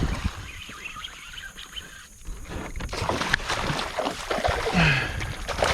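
Water splashing, with knocks and clatter, getting louder about three seconds in.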